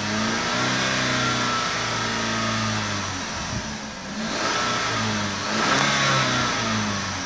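2013 Holden Captiva 5's 2.4-litre petrol four-cylinder engine being revved with the car standing still, heard from inside the cabin. It is held at about 3,000 rpm, drops off about three seconds in, then revs up again to nearly 4,000 rpm and falls back toward idle near the end.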